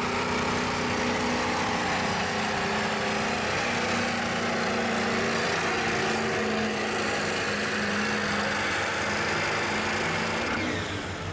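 1999 Ford F-350's 7.3 L Power Stroke turbo-diesel running hard under load, pulling the weight sled with a steady engine note and a high whistle. Near the end the whistle falls away and the engine note drops as the truck comes off throttle.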